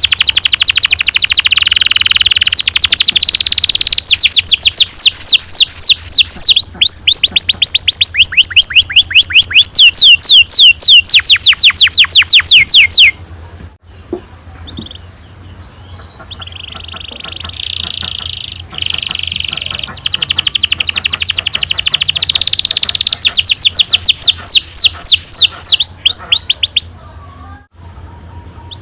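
Domestic canary singing long rolling trills: fast runs of rapidly repeated sweeping notes, high-pitched. The song pauses about halfway through, starts again, and breaks off near the end.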